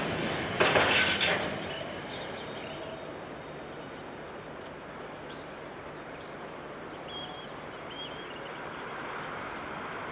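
The last wagons of a freight train clattering past on the rails, dying away about a second and a half in. After that only a faint steady background remains, with a few short bird chirps near the middle.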